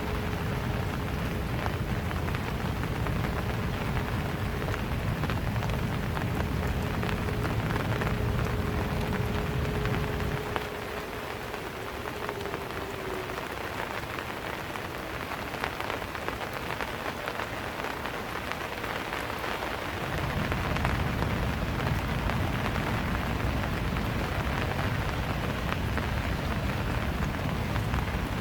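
Steady rain falling on the ground and surfaces. A low rumble under it drops away for about ten seconds in the middle, then returns. A faint steady hum fades out partway through.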